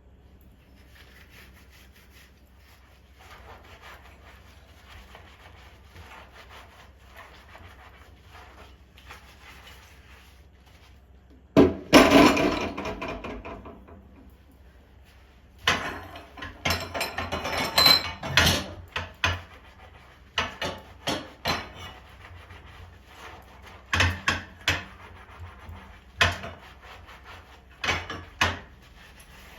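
Wooden kitchen utensils being handled: soft rubbing at first, then a loud scraping burst about twelve seconds in, then a run of clatters and separate wooden knocks.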